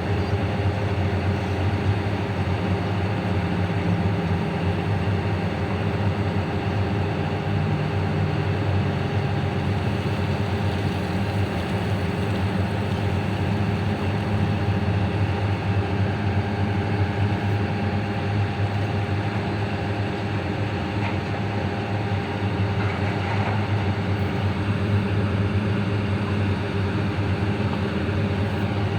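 Large diesel engine of heavy mining machinery running steadily: an even, low drone that holds its pitch, with no clear revving.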